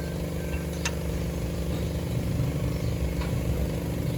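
Toyota Corolla GLI engine running steadily at idle, with a couple of faint light clicks over it.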